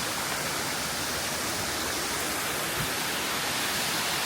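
Waterfall and cascading stream water rushing steadily, with a single faint tick about three quarters of the way through.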